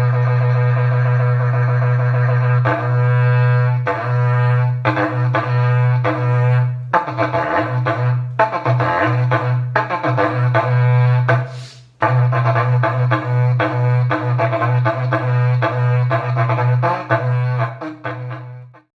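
Berrante, an ox-horn cattle trumpet, blown on one steady low note, then played in repique: rapid pulsing notes over the held tone, starting about two and a half seconds in. There is a brief break about twelve seconds in, and the sound fades out near the end.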